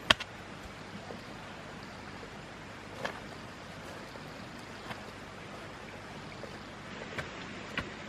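A sharp knife chop right at the start, then a steady rushing background noise with a few faint scattered knocks, like a pause between chopping strokes.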